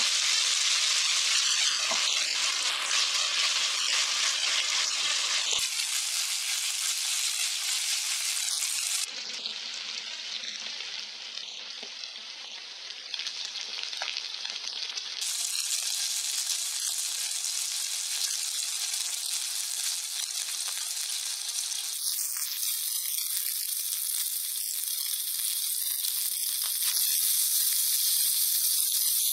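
Boneless chicken thigh pieces, whole garlic cloves and dried red peppers sizzling in hot oil in a pan, stirred with a spatula. The sizzle drops quieter for several seconds in the middle and changes abruptly a few times.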